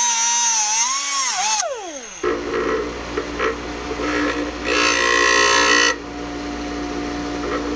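Power grinder taking the end off a steel tap. A high whine wavers and falls away about two seconds in, then the grinder runs steadily with two loud bursts of harsh grinding as the tap is pressed to the wheel, the second starting near the end.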